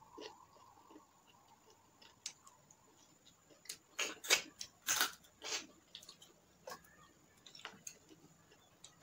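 Close-up mouth sounds of eating chicken by hand: wet clicks, smacks and chewing. A quick run of loud ones starts about four seconds in, with sparser small clicks around it.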